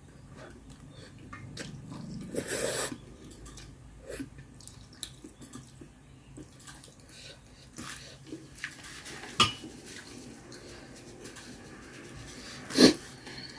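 A person eating close to the microphone: chewing and biting, with scattered clicks of utensils against dishes. There is a louder knock near the end.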